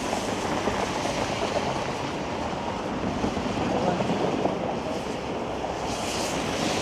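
Steady rush of city street traffic mixed with wind on the microphone, with a brighter hiss near the end.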